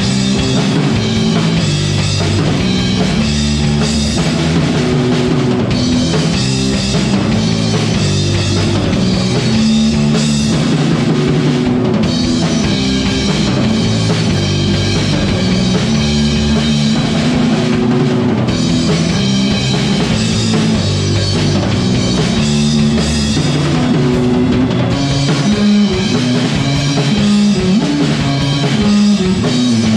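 A live indie/punk rock band playing at full volume: drum kit with bass drum, guitars and bass in a steady, driving rhythm.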